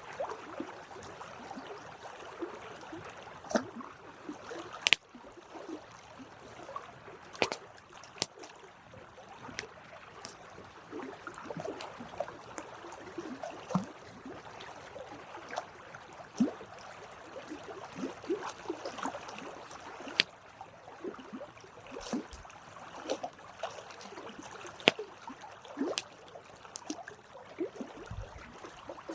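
Campfire burning, with a steady crackle and irregular sharp pops and snaps from the burning wood.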